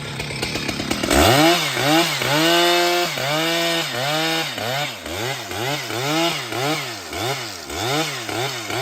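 Chainsaw engine revving up and down over and over, starting about a second in. Its pitch rises and falls roughly twice a second.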